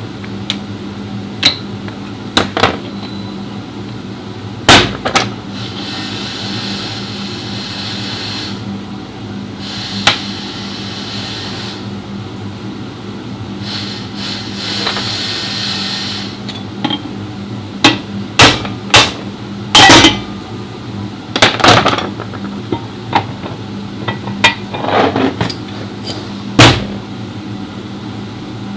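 Sharp metal-on-metal hammer strikes and tool clanks at irregular intervals as a BMW X4 rear differential is taken apart, over a steady low hum. Twice a hiss lasts a couple of seconds, and the strikes come closest together in the second half.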